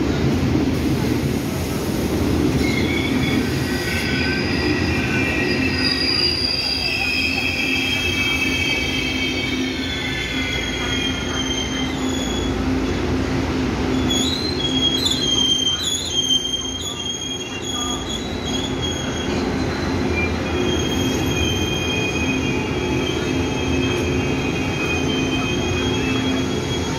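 Taiwan Railway Tze-Chiang express train rolling into an underground station platform and braking to a stop: a low rumble of the coaches with several high-pitched squeals from the wheels and brakes. The squeals waver most strongly about halfway through as the train slows.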